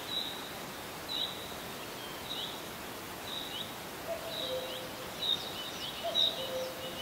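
Birdsong: one bird repeats short high chirps about once a second, with a quick flurry of extra chirps near the end. A second bird twice gives a low two-note call that falls in pitch, in the second half.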